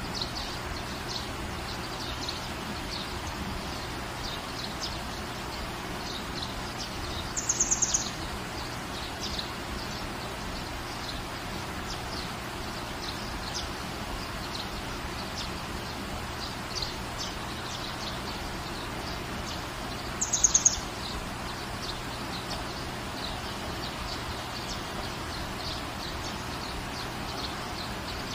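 Steady rain, with a bird twice giving a short burst of quick high notes, about a quarter of the way in and again about two-thirds through; these bursts are the loudest moments. Fainter high chirps come and go throughout.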